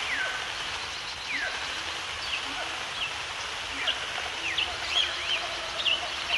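Wild birds giving short, quick down-slurred chirps, scattered irregularly, over a steady background hiss.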